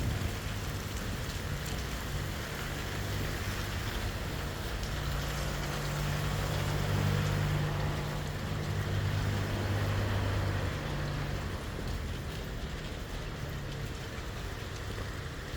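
Heavy rain falling steadily, with a vehicle engine hum that swells through the middle and fades again.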